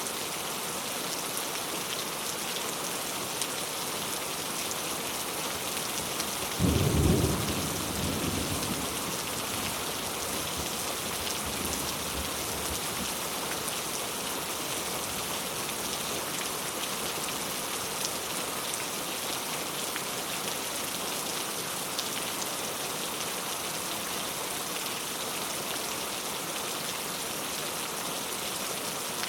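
Heavy rain falling steadily, with one sudden clap of thunder about seven seconds in that rumbles away over a few seconds.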